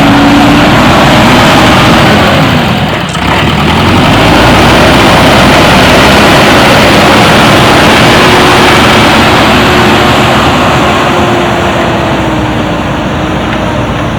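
Backhoe loader's diesel engine running loud and close, its pitch drifting slightly up and down as the revs change, with a brief dip about three seconds in.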